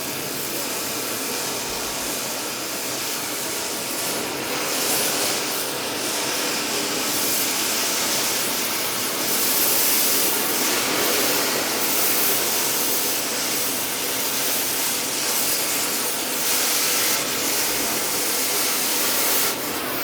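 Oxyacetylene cutting torch hissing steadily as it cuts loose the fastenings that hold a large lathe to the floor.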